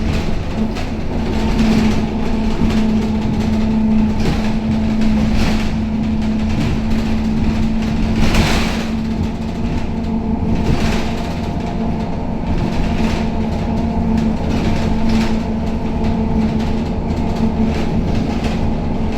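Scania K270UB city bus on the move, heard from inside: a steady engine drone with a constant hum, and the body and fittings rattling and knocking over the road every second or so.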